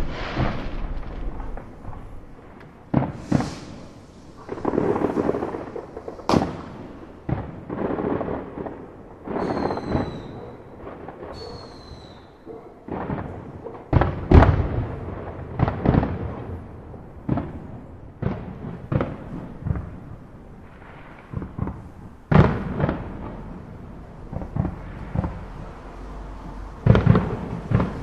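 Fireworks going off: a string of sharp bangs and bursts, each with a rumbling tail. Two short whistles slide down in pitch about ten and eleven seconds in.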